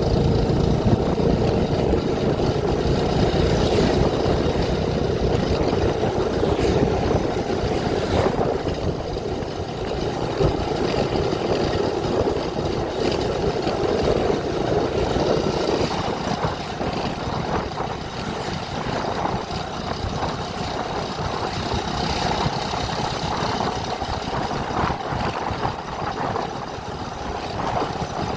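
Motor vehicle engine running steadily, its note shifting about halfway through.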